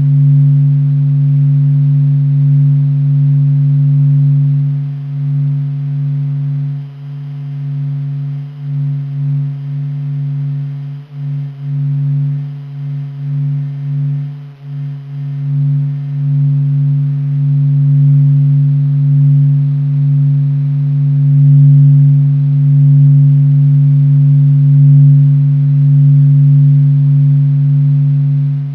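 Sun's vibrations recorded by NASA and sped up into sound: a low, steady hum with a few fainter overtones above it. It wavers and dips in loudness through the middle, then steadies.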